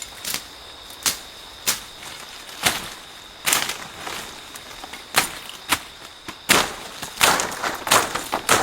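Irregular sharp crunches and snaps, spaced out at first and coming in quick clusters near the end, over a steady high-pitched tone.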